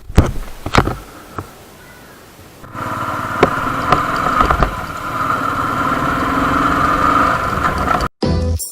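A few knocks, then about a third of the way in a Royal Enfield Thunderbird 350's single-cylinder engine starts and runs steadily. It cuts off suddenly near the end.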